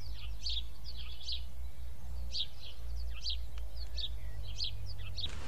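Small bird chirping repeatedly, short high chirps about two a second, over a steady low rumble.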